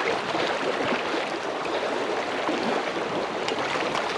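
River current rushing steadily, with a few faint short ticks.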